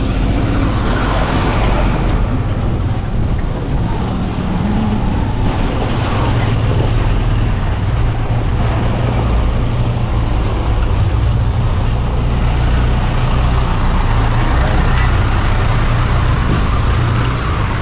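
Motorcycle engine running steadily while riding, with a constant low drone under road and wind noise.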